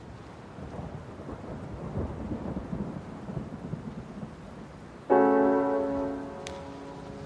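Rain and low rolling thunder fading in, then a single piano chord struck about five seconds in that rings and slowly fades, like the opening of a calm music track.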